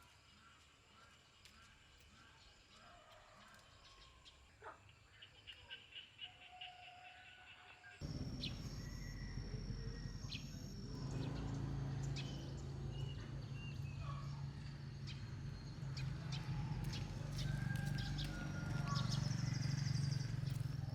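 Birds calling with short whistles and a trill over a quiet background. About eight seconds in, the sound cuts to a louder scene: a steady low hum joins in a little later, with scattered clicks and more bird calls.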